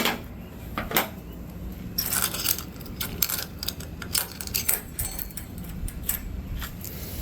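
Irregular small clicks and clinks of parts and tools being handled while a truck's turn-signal lamp assembly is put back together.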